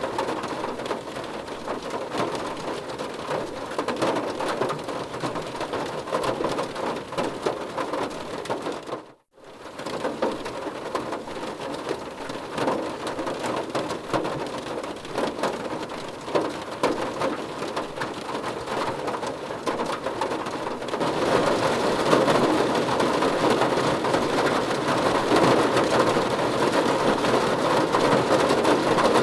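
Steady heavy rain falling on a surface. It cuts out completely for a split second about nine seconds in, then grows louder and fuller about two-thirds of the way through.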